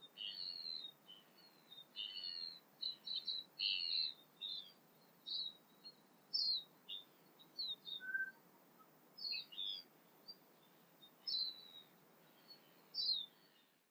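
Tūī singing: quick runs of short, high chirping notes, dense over the first half and then sparser and more spaced out, with one lower whistled note about eight seconds in.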